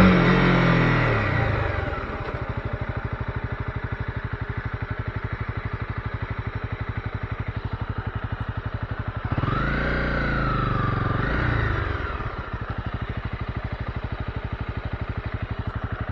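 Honda CB250R single-cylinder engine dropping in revs over the first two seconds, then running at low revs with a steady fast pulse. About nine seconds in it rises briefly and falls again, with a smaller rise just after, before settling back to the low pulse and rising again at the very end.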